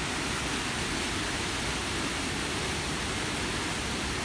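Waterfall rushing: the Devil's Kettle falls, a steady, even noise without breaks.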